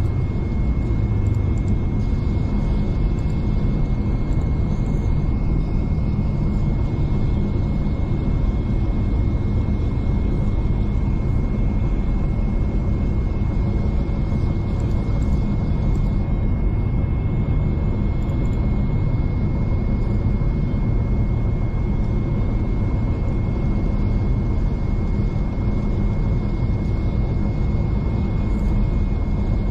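Steady rumble of a V/Line diesel passenger train running along the line, heard from inside the carriage, with a faint high whine held throughout.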